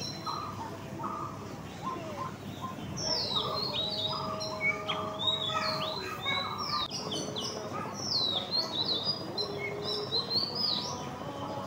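Small birds chirping and calling, many short notes that glide up and down, busiest from about three seconds in, with a few longer held notes in the middle.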